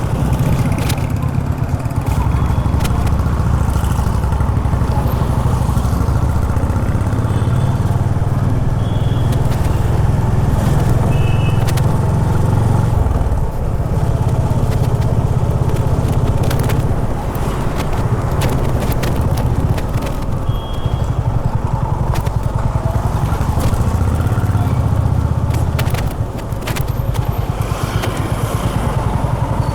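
Honda H'ness CB350's air-cooled single-cylinder engine running under way, a steady low note that eases off briefly about 13 seconds in and again near 26 seconds, with scattered clicks and a few short faint high tones over it.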